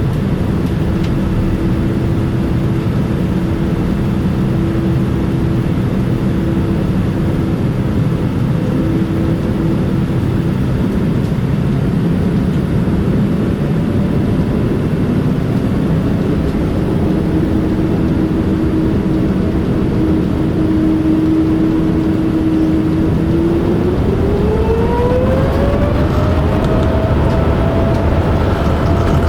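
Boeing 787-9 jet engines heard inside the cabin, humming steadily over a wash of cabin noise; near the end a tone climbs smoothly in pitch and settles higher as the engines spool up.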